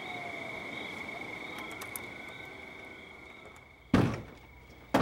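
A steady, high-pitched insect trill that slowly fades, then two loud, heavy thunks about a second apart near the end.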